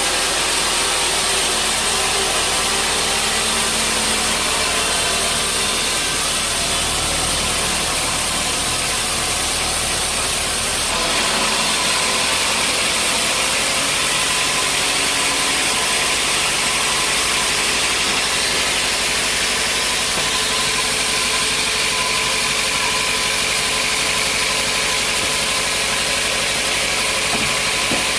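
Sawmill machinery running steadily, a loud, even mechanical din with a shift in its tone about eleven seconds in.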